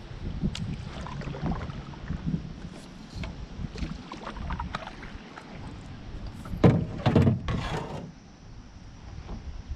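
Knocks and scrapes from handling in a canoe, with a cluster of louder clunks about seven seconds in, over wind rumbling on the microphone.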